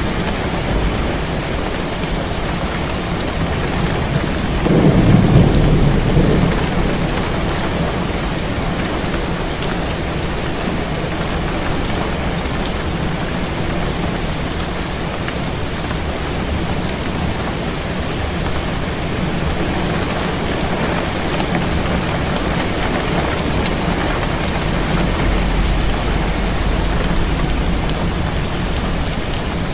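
Heavy rain falling steadily on a window. About five seconds in, a low rumble of thunder swells for a couple of seconds.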